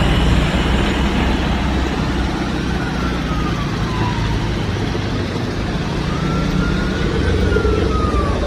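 Steady rumble of road traffic with an emergency vehicle's wailing siren, fainter than the traffic, rising and falling slowly twice.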